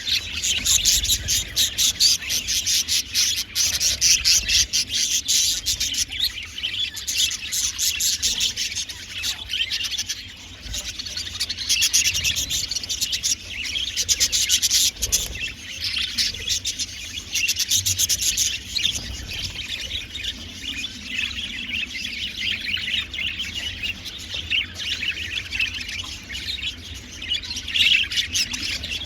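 A flock of budgerigars chattering and chirping continuously, many birds at once in a dense warble of rapid chirps and clicks.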